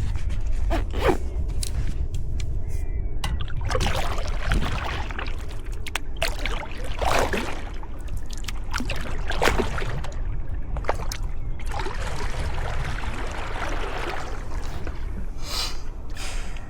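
Sea kayak paddle blades dipping and splashing in the water, one stroke every second or two, over a steady low rumble of wind on the microphone.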